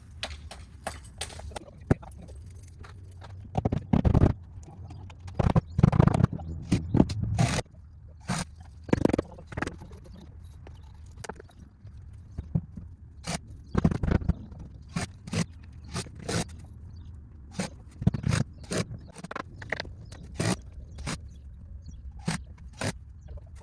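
Wooden fence boards being worked on by hand: irregular sharp knocks and clacks of wood with scraping. There is a cluster of heavier thuds in the first third and another about midway.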